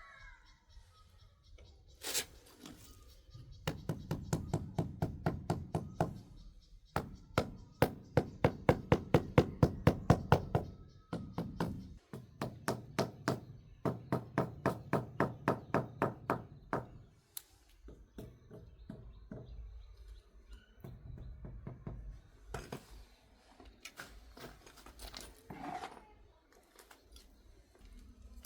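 Rapid, even knocking, about four knocks a second, in runs of a few seconds with short breaks, then softer scattered knocks near the end.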